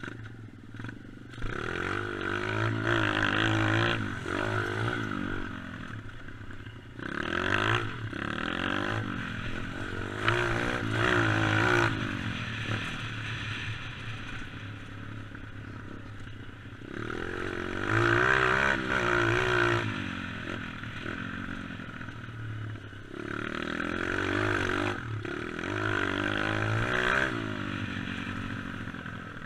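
Dirt bike engine revving hard and easing off as it is ridden off-road, with about four strong surges of throttle and a clattering rattle underneath.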